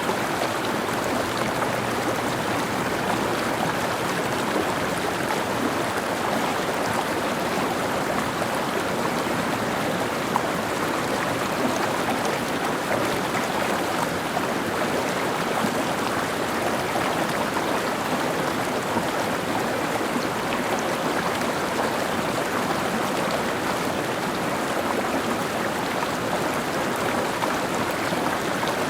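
Mountain stream running steadily, a continuous even rush of water.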